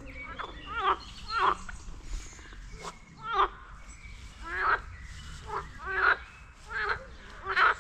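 Green frogs croaking from a pond: short, rattling calls, about nine of them, coming at uneven gaps of roughly half a second to two seconds.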